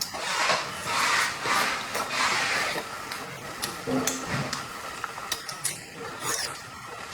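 Close-miked eating sounds of a person eating large tiger prawns: chewing and smacking for the first few seconds, then a run of sharp clicks and taps.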